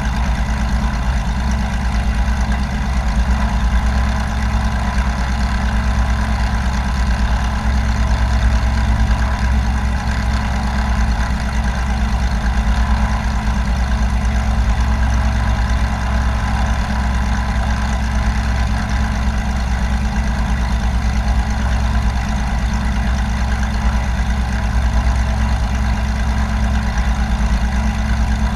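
Light piston-engine propeller aircraft running steadily, a constant engine and propeller drone with a strong low rumble.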